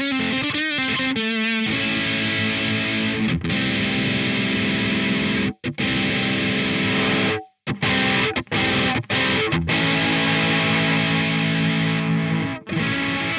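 Distorted electric guitar played through a Peace Hill FX TR tube preamp: held chords and notes, with a wavering pitch in the first second or two and several sudden choked stops.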